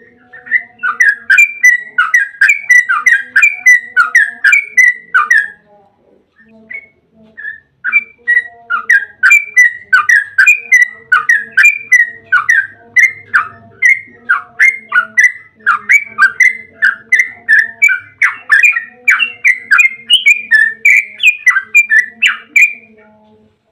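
Yellow-vented bulbul (trucukan) singing a long, rapid run of chattering notes, about four a second, with a pause of about two seconds after some five seconds before a longer run. A faint steady hum lies beneath.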